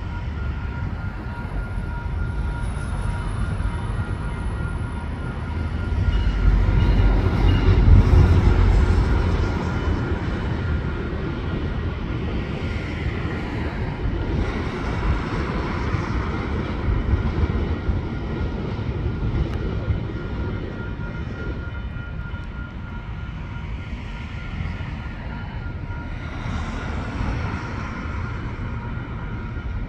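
Diesel-hauled GO Transit commuter train rumbling through a level crossing, loudest about a quarter of the way in, with wheel and coach noise rising and falling as the cars pass. A level-crossing warning bell rings steadily, with road traffic behind.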